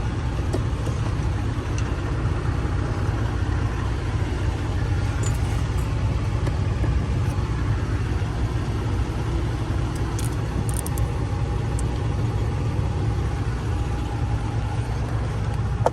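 Steady low rumble of an idling diesel truck engine. A few faint light clicks come about ten seconds in.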